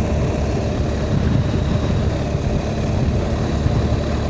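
BMW R 1250 GS's boxer-twin engine running steadily while the motorcycle is ridden, mixed with wind noise.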